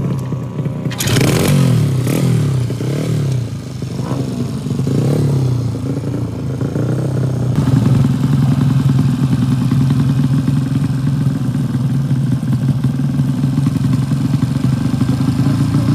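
Drag-race motorcycle engines revving: about a second in, sharp up-and-down revving sets in and repeats for several seconds, then the engine settles into a steady idle.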